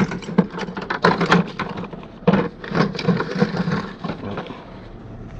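Irregular clattering and knocking of tools and pipe fittings as a toolbox is rummaged through, easing off near the end.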